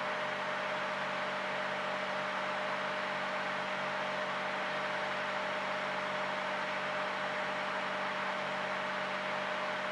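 Steady cabin drone of a Cirrus single-engine piston airplane in cruise flight: an even hiss of engine, propeller and airflow noise with a constant low hum.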